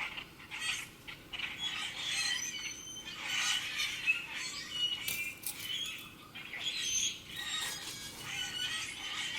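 Several songbirds chirping and singing over one another in quick short notes, with no let-up.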